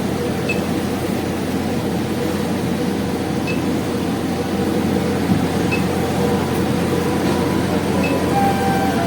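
Steady hum of an airliner's air-conditioning during boarding, an even rushing drone with no break.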